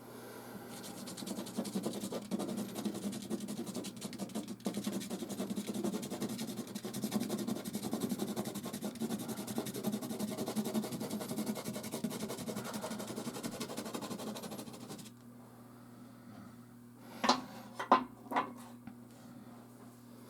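Soft pastel stick scraping and rubbing across textured canvas in a long run of close strokes, which stops about three quarters of the way through. Three sharp taps follow near the end, over a steady low hum.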